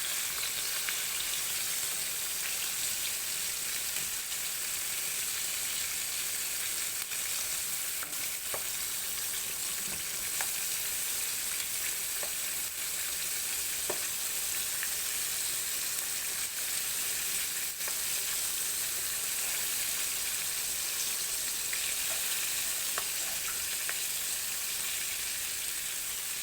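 Skin-on pork chops frying in a pan of hot oil: a steady sizzle with scattered small pops and crackles.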